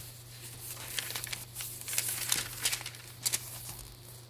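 Paper pages of a handmade junk journal being turned and handled: rustling and crinkling with scattered light flicks and taps.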